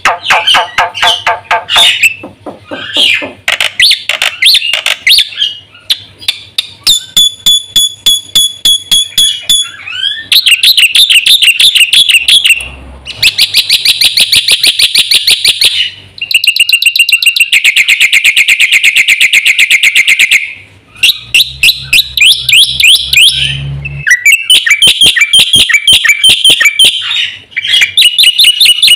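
Black-winged myna (jalak putih) singing loudly: a long run of rapid trilled and chattering phrases, each a few seconds of quickly repeated notes, separated by short breaks.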